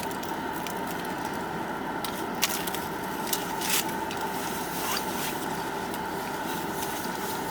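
Steady background hum with a few short crackles and clicks: the paper wrappers of Subway breakfast wraps being handled while the wraps are eaten.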